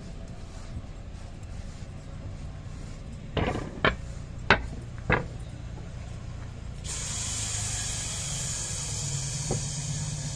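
MI79 electric train running with a steady low hum; four sharp clacks come close together a few seconds in, and about seven seconds in a steady hiss starts suddenly and carries on over the hum.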